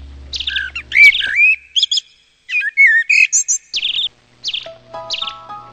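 A bird chirping in short high notes repeated about every two-thirds of a second, with warbling, gliding song in the middle; steady musical notes come in near the end.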